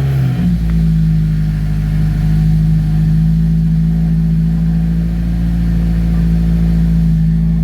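Subaru WRX's turbocharged flat-four engine, just started, settling within the first half second into a loud, steady idle while it is checked for a misfire.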